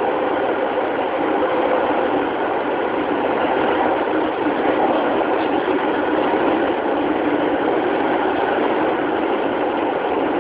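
Running noise of a JR 205-series electric train heard inside its motor car: wheels on the rails and the MT61 traction motors, making a steady, even rumble with no clear change in speed.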